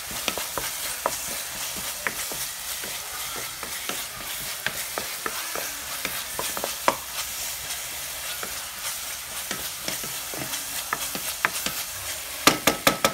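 Chopped small onions and tomato sizzling in oil in a non-stick pan while a wooden spatula stirs them: a steady frying hiss with scattered scrapes and taps, and a quick run of louder knocks near the end.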